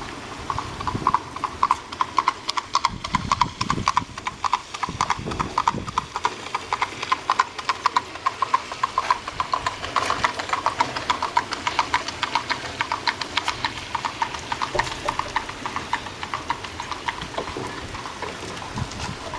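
Horse hooves clip-clopping on a hard road, a rapid run of sharp strikes that grows louder toward the middle and fades away toward the end, as of a horse passing by. Rain hisses steadily underneath.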